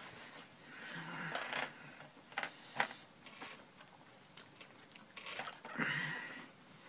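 A person chewing food close to the microphone, with a few sharp clicks and rustles as a paper food wrapper is handled.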